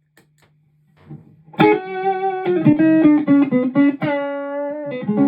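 Electric guitar played through a pedalboard with the Xotic Super Sweet boost engaged, giving a fuller, throatier clean tone close to breakup. After a second or so of faint amp hum and small clicks, a phrase of quick single notes starts and settles into longer held notes.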